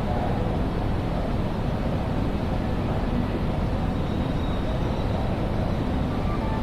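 Steady background din of a large railway station hall, heaviest in the low end, with faint thin tones near the end.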